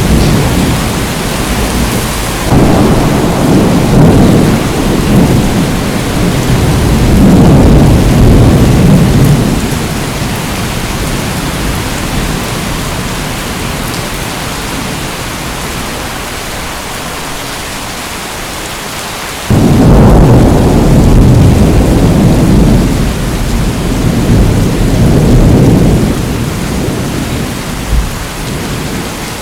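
Steady rain with two long rolls of thunder. The first breaks a couple of seconds in and rumbles for about seven seconds. The second starts suddenly about two-thirds of the way through and rolls for several seconds before fading back to the rain.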